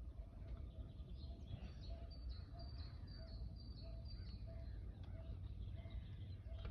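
Birds calling outdoors: a high, thin note repeated about three to four times a second for a couple of seconds, and a lower call repeating more slowly throughout, over a steady low rumble.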